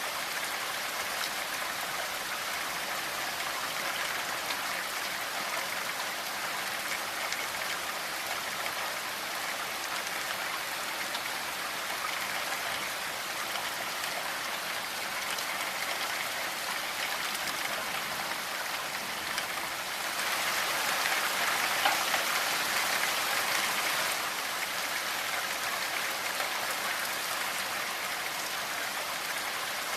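Steady rainfall, a continuous patter of drops, swelling a little louder for a few seconds about two-thirds of the way through.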